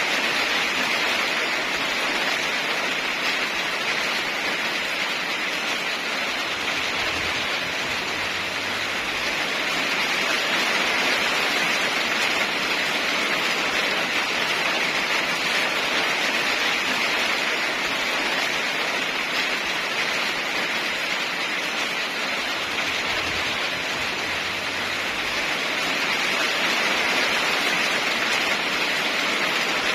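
Heavy rain falling, an even hiss that swells a little now and then.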